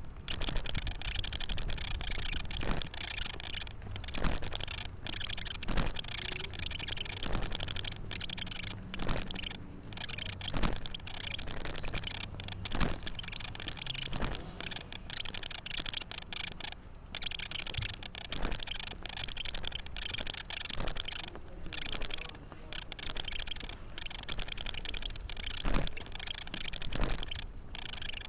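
Rattling and knocking from a handlebar-mounted camera as the bicycle is walked along, with irregular knocks every second or so over a steady hiss.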